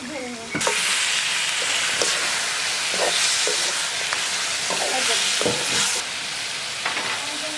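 Raw chicken pieces sizzling loudly in hot oil with onions and spices in a metal karahi, the start of frying, as a slotted metal spatula stirs them, scraping and knocking against the pan. The sizzle begins about half a second in and eases a little near the end.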